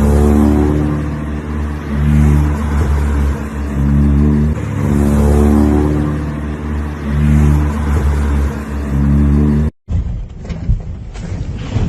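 Car engine running loudly, its pitch holding and then stepping up and down every second or two as the revs change. Near the end it cuts off abruptly, and wind noise on the microphone follows.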